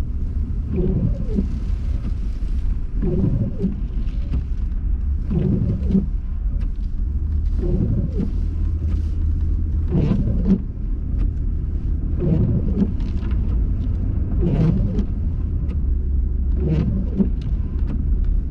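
Steady low car engine and road rumble heard inside the cabin, with the windshield wipers sweeping about every two seconds, each pass giving a short pitched squeak of the blade on the glass.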